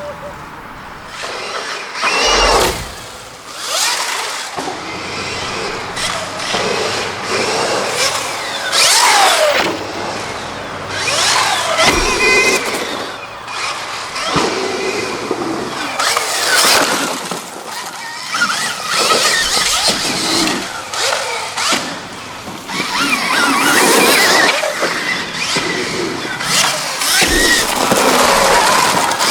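2024 Stark Varg electric motocross bike's motor whining, its pitch rising and falling again and again as the rider accelerates and backs off, with the whole sound swelling and dropping every second or two.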